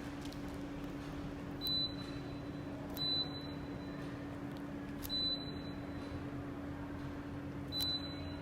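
Indoor unit of a Gree-made Daikin FTNE35JEV14 split air conditioner beeping as it takes commands from a remote: four short, high beeps, each starting with a click, roughly one to three seconds apart, over a steady low hum.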